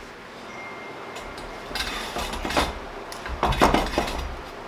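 Metal-on-metal clinks, knocks and short scrapes of steel parts being handled on a steel plate, in a few clusters about two seconds and three and a half seconds in.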